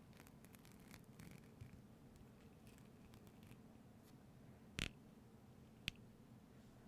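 Faint scattered clicks and light tapping from objects being handled close to the microphone, with two sharper clicks about five and six seconds in.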